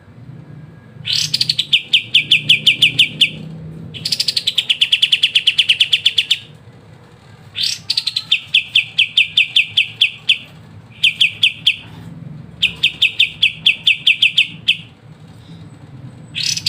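Pied triller (kapas tembak) singing its fast rattling trill: about six bursts of rapid, evenly spaced notes, each opening with a higher downslurred note and lasting one to two and a half seconds, with short pauses between.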